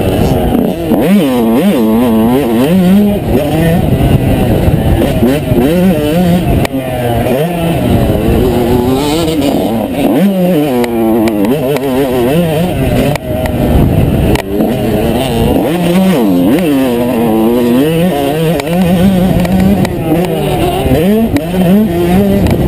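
2003 Yamaha YZ125 single-cylinder two-stroke engine being ridden hard: it revs up and drops back again and again, its pitch rising and falling every second or two as the throttle opens and closes.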